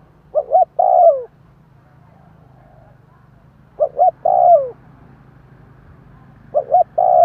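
Spotted dove cooing: three phrases about three seconds apart, each two short coos followed by a longer coo that falls in pitch at the end.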